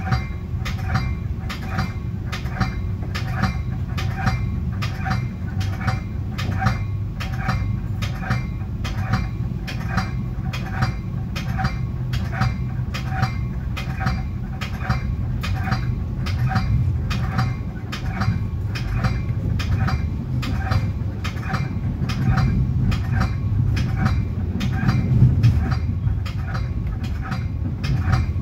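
Metra commuter train running, heard from the front of the cab car: a steady low rumble with even, sharp clicks about twice a second.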